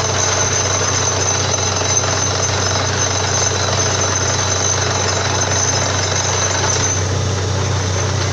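Borewell drilling rig running steadily: a loud, continuous mechanical hammering din over a steady low hum, with a thin high whine that fades out near the end.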